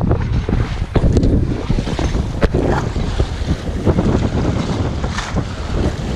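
Wind buffeting the microphone, over water rushing and splashing along the hull of a small sailboat under sail.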